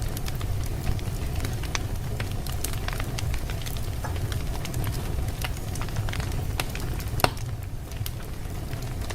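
Wood fire in a fireplace crackling and popping: scattered sharp snaps over a steady low rumble of the flames, with one louder pop about seven seconds in.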